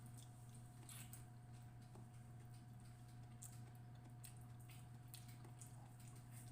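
Faint eating sounds: soft, scattered wet mouth clicks and smacks of chewing, over a steady low electrical hum.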